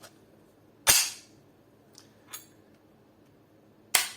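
Two loud, sharp knocks of hard parts striking each other, about a second in and again near the end, with a fainter click between them, as an airsoft AK is handled during reassembly.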